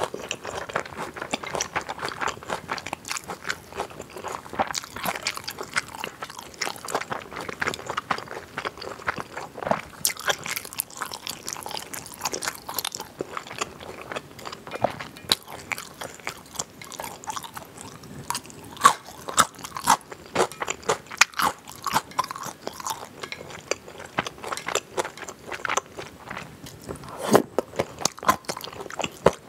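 Close-miked chewing of chilled pig's feet and crisp julienned vegetables, with many quick, irregular crunches and wet mouth clicks.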